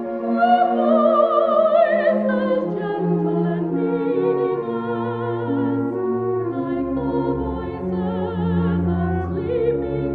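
Soprano singing with a wavering vibrato over an orchestra playing sustained chords.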